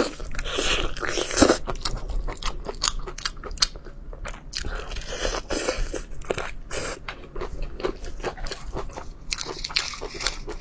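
Close-miked eating sounds: crunchy bites and chewing, a rapid, irregular run of sharp crunches.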